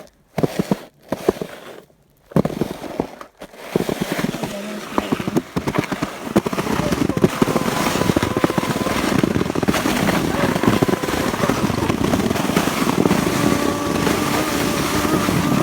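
Wet, soft snow crunching and scraping as someone slides down through it: a few stop-start crunches at first, then from about four seconds in a dense, continuous crackle.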